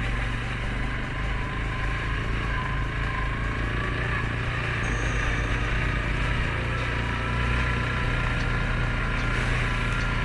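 Suzuki King Quad 750 ATV's single-cylinder engine running steadily at low speed, with a thin whine above the engine note.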